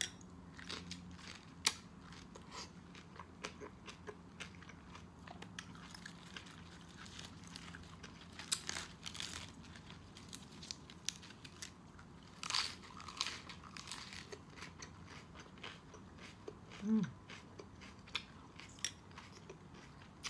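Close-miked chewing of raw tomato: wet crunches and mouth clicks scattered irregularly, with one short hummed "mm" about three seconds before the end.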